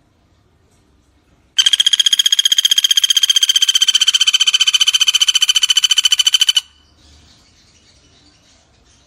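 Pelatuk bawang (a woodpecker) calling: one fast, even trill of about five seconds, steady in pitch, starting and stopping abruptly. Faint background before and after it.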